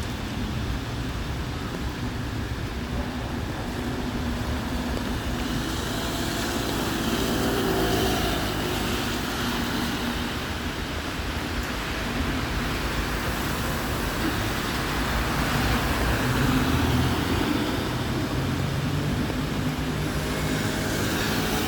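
Road traffic on a rain-wet street: cars passing with engine and tyre hiss, swelling as vehicles go by about 8 seconds in and again around 17 seconds.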